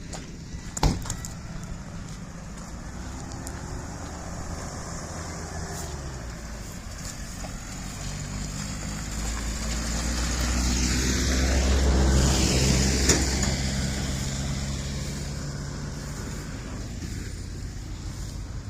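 Motor vehicle engine passing close by: its hum builds steadily to a peak about twelve seconds in and then fades away. There is one sharp knock about a second in.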